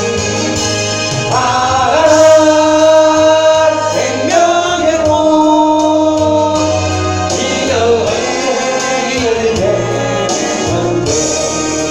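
Church praise song: voices singing with instrumental accompaniment, in long held notes that glide from one pitch to the next.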